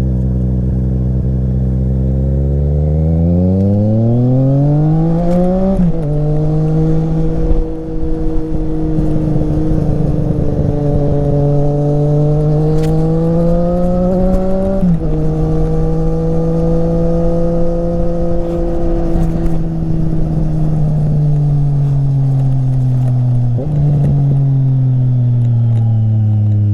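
Triumph Street Triple RS three-cylinder engine with an SC-Project exhaust, heard while riding. It revs up hard, drops sharply at a gear change about six seconds in, and climbs again to a second shift midway. The revs then ease off gradually, with another quick dip near the end.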